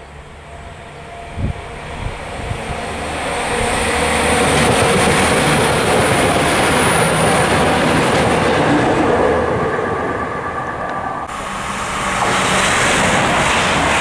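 Passenger trains passing at speed on main-line track, wheels running on the rails with a thin high whistle as the first train comes near. Its noise builds up from about three seconds in. After an abrupt cut near the end, a second train passes close by.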